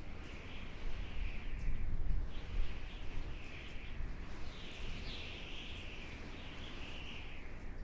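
Outdoor nature ambience: birds chirping continuously over a steady low rumble.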